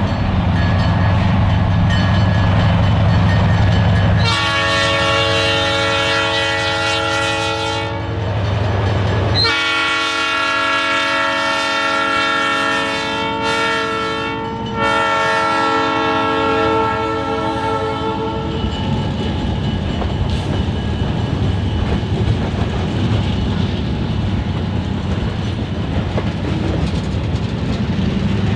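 Diesel freight locomotive sounding its air horn in several long blasts over the steady rumble of its engine. The horn stops about two-thirds of the way through, leaving the engine and rolling freight cars.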